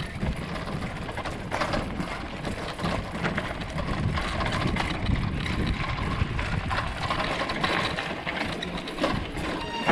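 Bicycle rattling over a rough off-road track: a dense clatter of small ticks and knocks over a low, uneven rumble.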